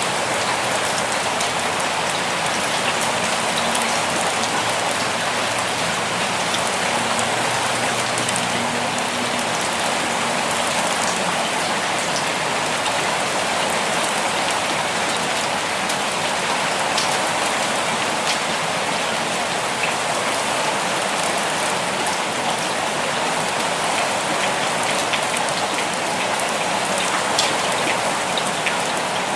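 Steady rainfall: an even hiss of rain with individual drops ticking through it.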